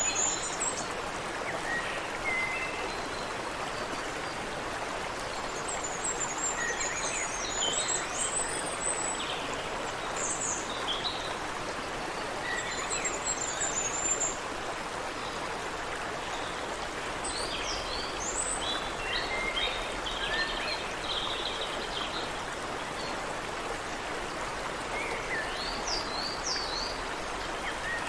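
A creek running steadily over rocks, with birds chirping and trilling in short scattered calls over the top.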